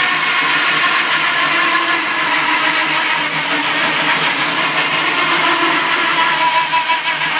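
Sawmill machinery running steadily: an engine and spinning saw, with a sustained whine over a constant drone.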